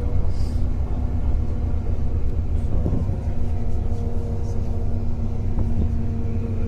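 Inside a moving bus: a steady low engine and road rumble with an even hum over it.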